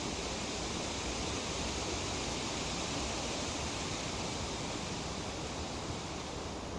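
Tree leaves rustling in a steady breeze: an even, unbroken hiss that swells slightly in the middle and eases a little near the end.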